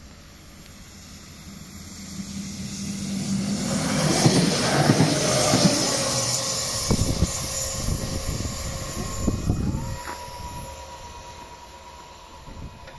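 Passenger multiple-unit train passing close by. It swells to its loudest about four seconds in, with a few sharp wheel knocks as it clears, then fades. From about ten seconds a steady electric whine sets in as the level-crossing barrier motor lifts the boom.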